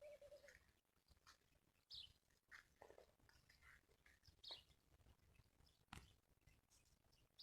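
Birds chirping faintly: short, scattered high chirps every second or so. A single sharp click comes about six seconds in.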